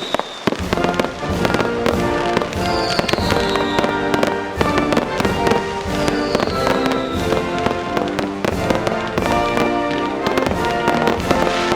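Aerial fireworks going off in a rapid string of bangs and crackles, mixed with background music that comes in about half a second in.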